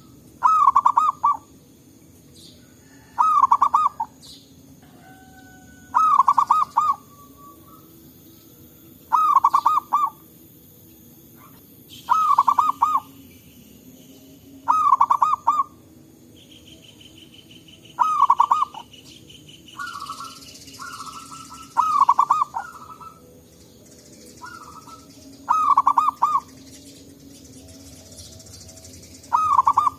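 Zebra dove (perkutut) cooing: a loud burst of rapid staccato coos about a second long, repeated roughly every three seconds. Shorter whistled notes from other birds and a steady buzzing trill midway fill some of the gaps.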